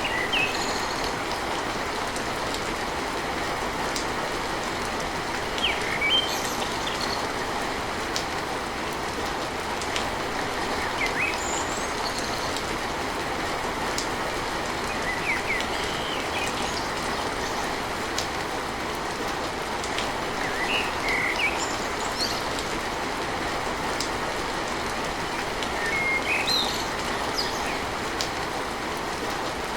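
Steady rain drumming on a tin roof, a constant even hiss with scattered sharp drip ticks. Birds give short chirps every few seconds.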